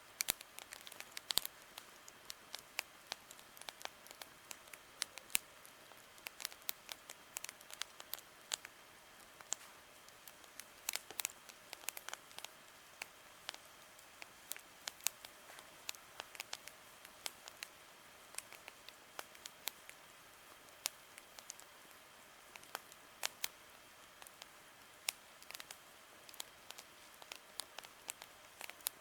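Wood campfire crackling: a dense, irregular run of sharp snaps and pops over a faint steady hiss.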